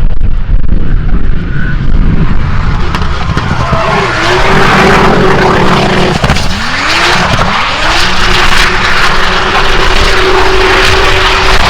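Toyota Supra Mk4's 2JZ turbocharged inline-six held at high revs through a drift, with tyres squealing and skidding. The revs drop and sweep back up twice a little past the middle, then hold steady.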